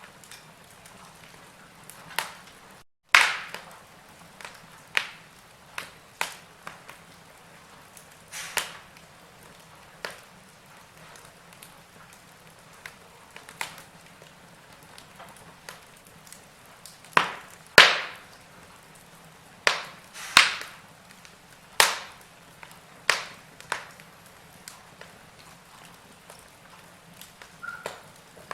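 Wood fire crackling: irregular sharp pops and snaps from burning logs over a faint steady hiss, the loudest pops about three seconds in and around eighteen and twenty seconds. The sound cuts out for a split second just before the three-second pop.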